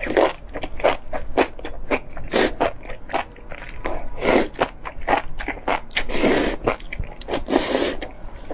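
A person chewing and biting spicy enoki mushrooms: many short, wet crunching and smacking sounds, with a few longer noisy ones about every two seconds.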